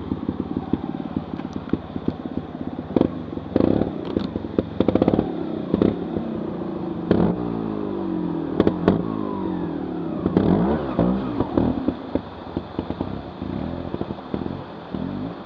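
Trial motorcycle engine revving up and down in bursts, with a series of sharp knocks and clatter.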